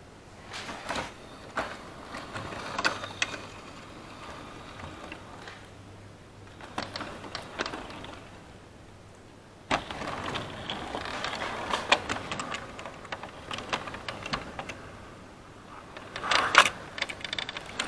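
Model railway train running on the layout track: a small electric motor hum with irregular clicks and rattles of wheels over rail joints and points, getting suddenly louder and busier about ten seconds in.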